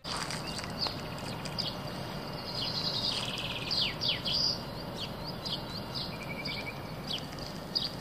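Several songbirds singing and chirping: short high notes and downward-sweeping calls, with a quick rapid trill about three seconds in, over steady background noise.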